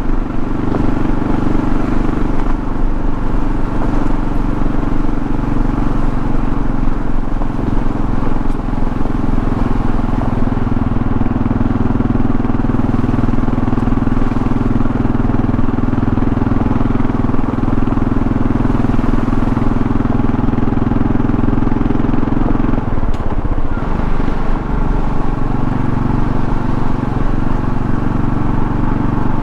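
2024 Kawasaki KLR650's single-cylinder engine running steadily at cruise under road and wind noise. About twenty-three seconds in, the engine note drops and then climbs back to a steady pitch.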